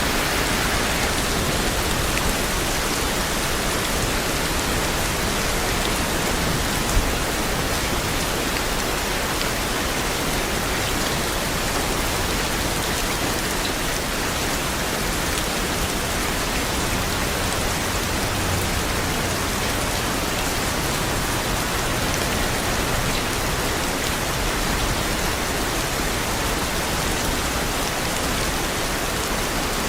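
Steady rain falling as an even hiss with dense patter, with one brief louder tap about seven seconds in.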